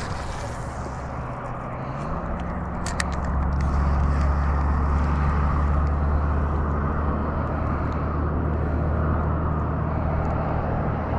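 An engine running steadily with a low hum, rising in pitch and getting louder about two seconds in, then holding.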